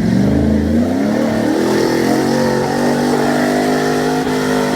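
Jeep J-series pickup's engine revving: its pitch climbs over the first two seconds, then holds steady at higher revs.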